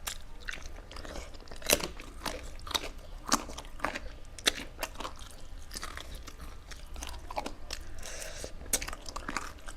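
Close-up chewing and biting of food, with irregular sharp crunches, several of them louder, over a steady low hum.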